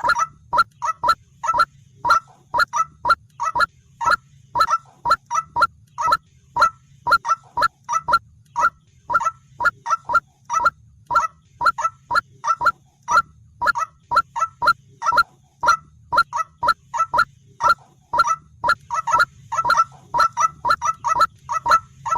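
White-breasted waterhen calling: a long run of short, sharp notes, about two to three a second, in an even rhythm.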